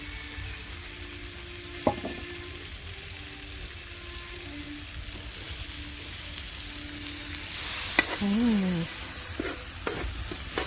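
Food sizzling as it fries in oil in a pan and is stirred; the sizzle grows louder about eight seconds in, with a few sharp knocks of a utensil against the pan.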